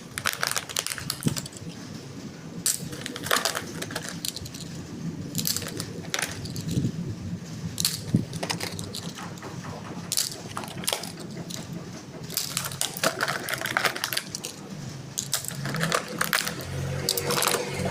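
Plastic toy cars and their packaging being handled: scattered sharp clicks, knocks and rattles, some in quick clusters. A faint low hum runs underneath and grows stronger near the end.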